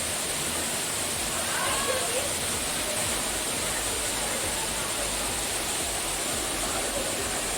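Waterfall pouring steadily, a continuous even rush of water. Faint distant voices call out about two seconds in.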